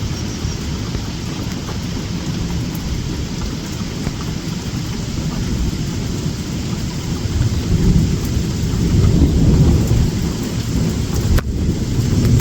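Steady rain falling, with a deep low rumble underneath that swells about eight seconds in.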